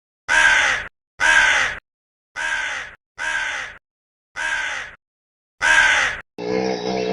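An animal's harsh, rasping call repeated six times, each about half a second long, separated by short silences. Near the end a different, lower, continuous animal sound begins.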